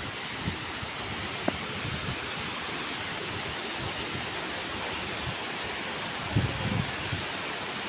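Steady rushing of falling water from the Neya waterfall, with a brief low wind buffet on the microphone about six seconds in.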